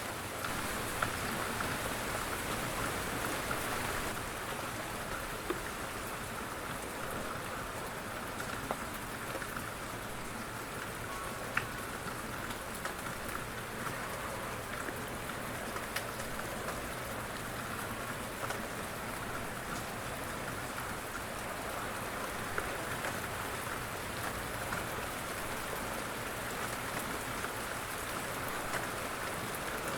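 Light rain falling steadily, an even hiss of drops with a louder single drop now and then.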